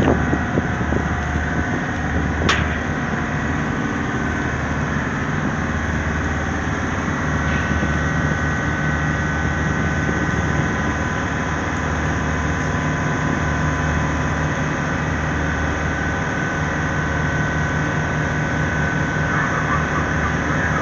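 A ship's heavy engine running steadily with a low, even throb and a faint steady whine, as the vessel manoeuvres while docking. A single sharp click about two and a half seconds in.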